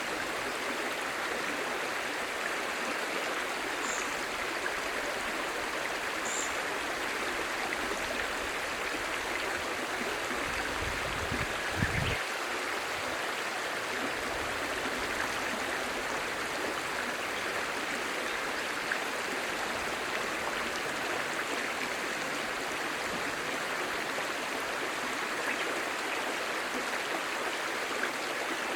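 Clear stream babbling steadily, with a brief low rumble about halfway through.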